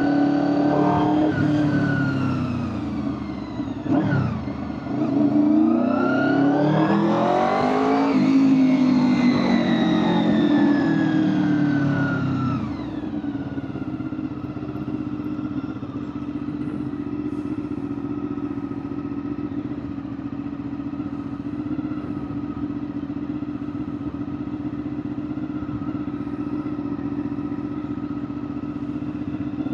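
Honda VFR800 V4 motorcycle engine running under way. It winds down in pitch, picks up revs again about five seconds in, then eases off about twelve seconds in and settles into a steady, quieter, even note.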